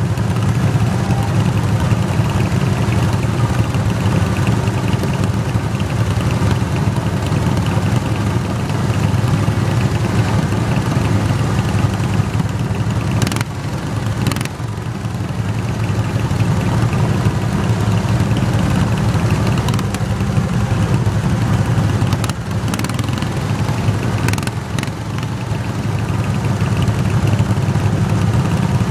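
Garden tractor engine running steadily and loudly, with a few brief dips in level partway through.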